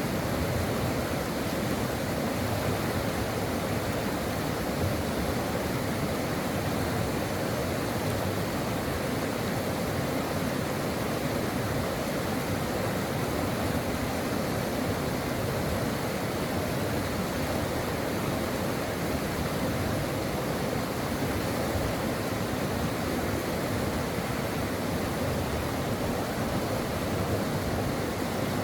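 Brook water flowing in a steady, even rush.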